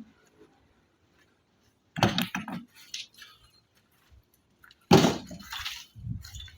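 Two short bursts of sharp knocks and clinks, about two seconds and five seconds in, like hard pieces striking one another, with near silence between them.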